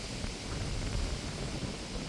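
Strong wind buffeting the microphone: an uneven low rumble under a steady hiss.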